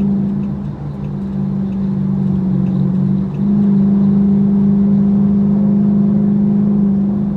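Car engine droning steadily under load, heard inside the cabin; it eases off about half a second in, then comes back on louder at about three and a half seconds.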